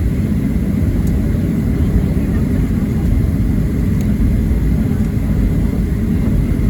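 Inside the cabin of a Boeing 737-700 taxiing with its CFM56-7B engines at idle: a steady low rumble with a faint steady whine above it.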